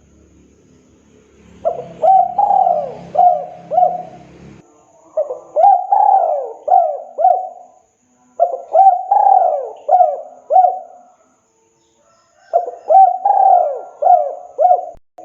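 Spotted dove (tekukur) cooing: four phrases of about five arched coos each, repeated every three to four seconds. A low rumble sits under the first phrase.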